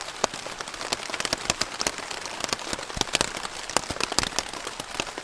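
Rain falling on a tarp shelter overhead: many irregular sharp drop hits over a steady hiss.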